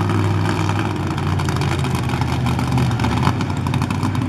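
Monster truck engine running loudly, its revs shifting a little in the middle.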